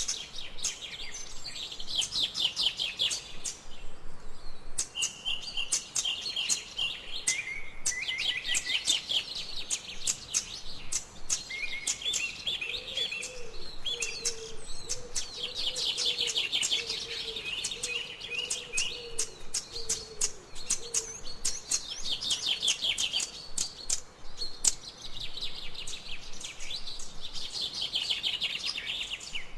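Forest birds singing: quick trills of high chirps repeat over and over, several birds overlapping, and a lower wavering call joins for several seconds midway.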